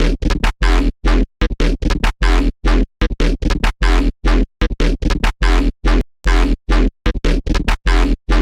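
Serum software synth patch built on a wavetable made from an image, playing in short, chopped bursts, about three to four a second, each with a deep bass and a gritty, scratch-like top, cut off sharply into silence between them.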